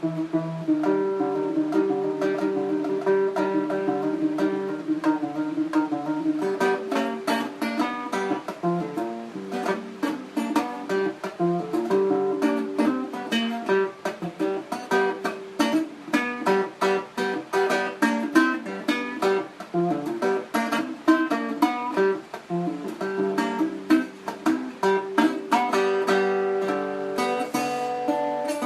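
Instrumental music on a plucked string instrument, guitar-like, with no bass. It opens with held, sustained notes, then from about six seconds in turns to quick, picked notes.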